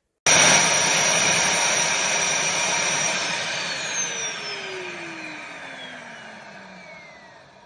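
Bissell CrossWave HydroSteam wet-dry vacuum's motor running, starting abruptly, then switched off about three seconds in: its whine falls in pitch and fades as the motor spins down.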